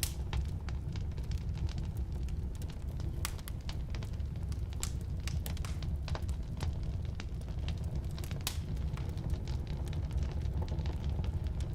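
Firewood burning in a fireplace: a steady low rumble of the flames with irregular sharp crackles and pops from the wood, a few louder snaps scattered through.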